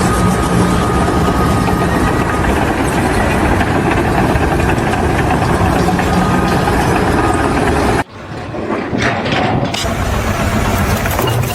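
An engine running steadily with loud, dense noise. It cuts off abruptly about eight seconds in, giving way to a quieter, different scene with a few knocks.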